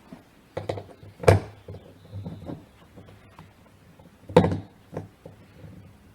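Small parts of a chainsaw's recoil starter being handled and fitted back together: a string of light clicks and knocks, with two sharper knocks about a second in and near the middle.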